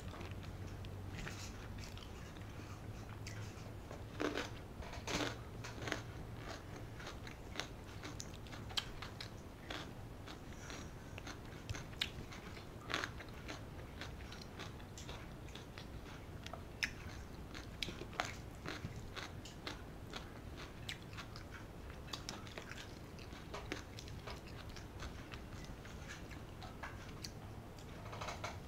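Close-up chewing and biting of a person eating rice and curry by hand, heard as many small, irregular wet clicks from the mouth, with a faint low hum underneath.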